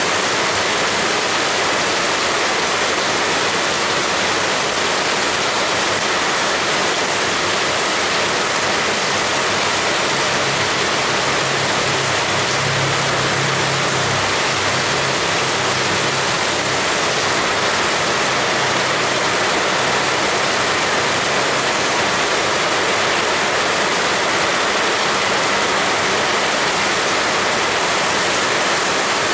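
Heavy rain pouring steadily in a dense, even hiss. A faint low hum rises under it from about a third of the way in and fades again after the middle.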